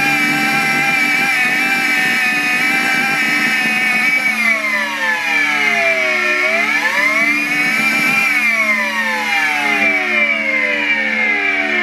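Miele Complete C3 cylinder vacuum cleaner's motor running with a high whine. The pitch holds steady for about four seconds, dips low, climbs back, then falls again through the last few seconds as the suction power setting is turned down and up.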